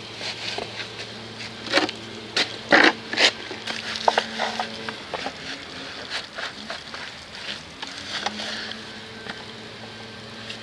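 Irregular scrubbing, rubbing and light knocks of a dirt bike being hand-washed under foam, loudest a couple of seconds in, over a steady low hum.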